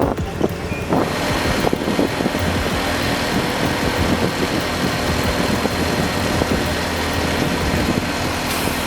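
Heavy truck engine running steadily, with a dense, even rumble and hum.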